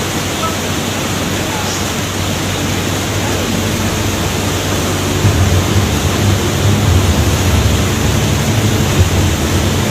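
Waterfall's rushing water: a loud, steady roar, with a low rumble growing stronger about halfway through.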